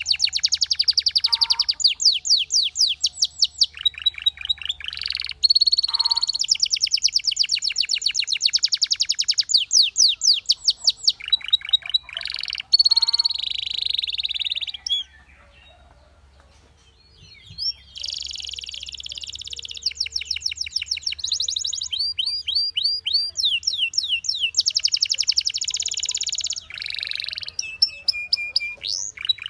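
Canary singing: fast rolling trills of rapidly repeated high notes, changing from phrase to phrase, with a short pause about halfway through before the song resumes.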